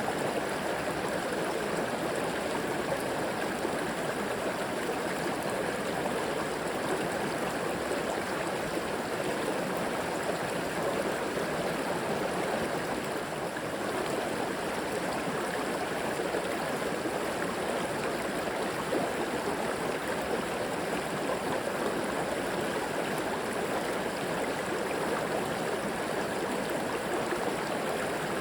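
River water flowing and rushing steadily over rocks, an even, unbroken wash of water noise.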